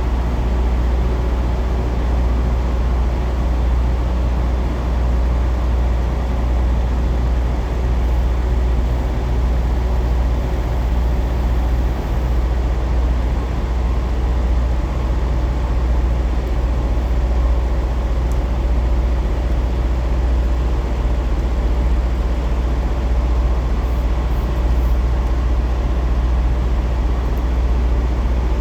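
Semi-truck diesel engine running steadily with a deep, even drone.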